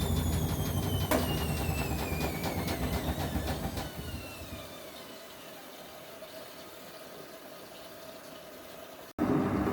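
1994 Ocean 900 washing machine winding down from a spin: the motor's whine falls steadily in pitch and the drum's rumble fades away over about four seconds, with a single click about a second in. Shortly before the end a louder machine running sound starts abruptly.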